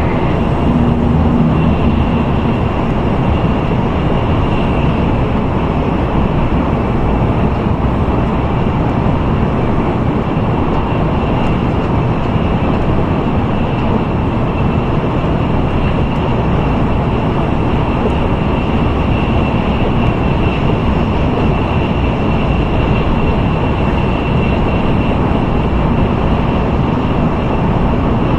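Steady interior running noise of an N700A Shinkansen travelling at speed: an even rumble and rush of wheels and air, with a faint steady high tone above it.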